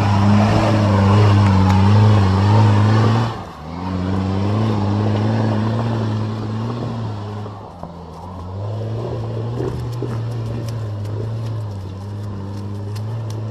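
Off-road 4x4's engine running hard at steady revs in the mud. The sound drops out briefly about three and a half seconds in, and from about eight seconds on, light clicks and rattles come through over the engine.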